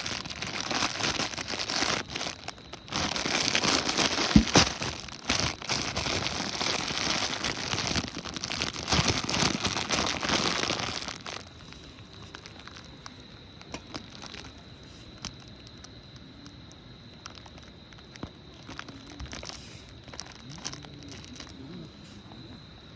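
Plastic packaging crinkling and rustling as it is handled, stopping abruptly about eleven seconds in; after that only faint scattered clicks.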